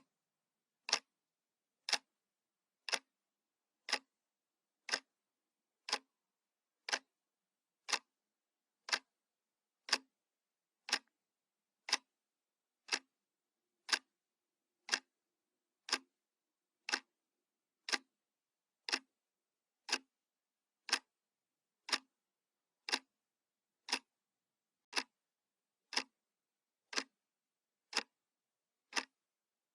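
Analog clock ticking once a second: sharp, even clicks with dead silence between them.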